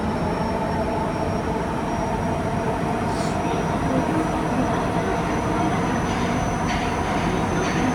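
Nagoya Meijo Line 2000-series subway car, with Hitachi GTO inverter drive, heard from inside while running through the tunnel: a steady rumble of wheels and motors with faint steady tones and a few short hisses.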